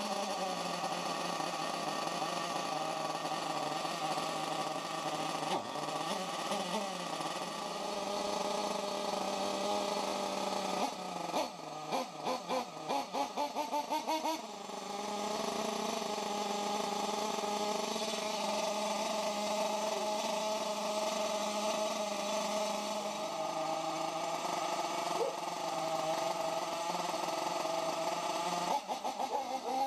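RC buggy's small engine running at a steady high-pitched note, with a run of quick throttle blips about a third of the way in and again near the end.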